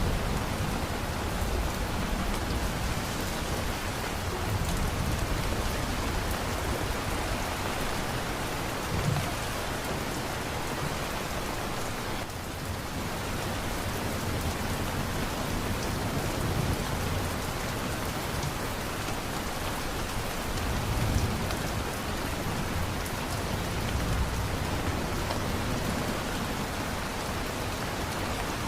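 Steady heavy rain falling on surfaces, with low rolls of thunder rumbling underneath now and then.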